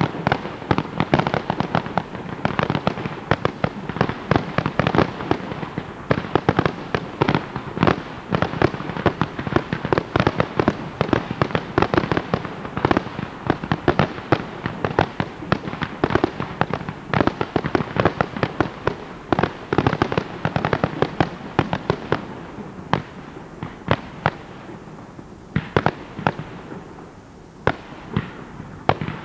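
Dense barrage of aerial firework shells bursting, many sharp bangs a second, thinning out over the last several seconds.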